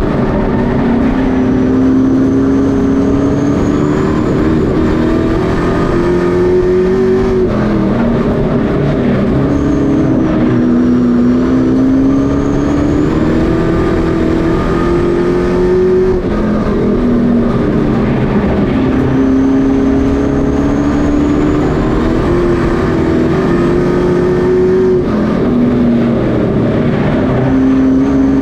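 Pro Truck race trucks' engines running hard around a short oval. The pitch climbs and then drops in a cycle that repeats about every six seconds, as they accelerate down the straights and lift for the turns.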